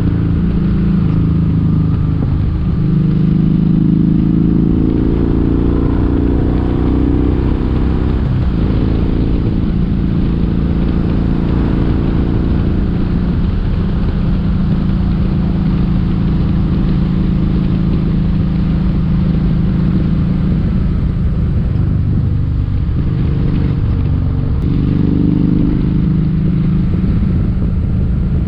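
Kawasaki Vulcan 1700 Vaquero's V-twin engine under way, over steady wind and road noise. Its pitch climbs over the first few seconds, dips sharply about eight seconds in, holds steady, then climbs again near the end.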